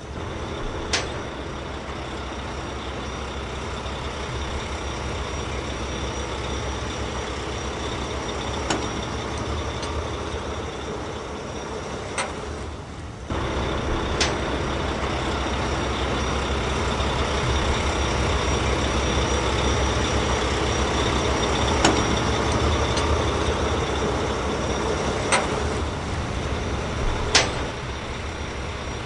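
Truck engine sound effect running with a steady low rumble, with a few sharp clicks scattered through. It cuts out briefly about thirteen seconds in and comes back a little louder.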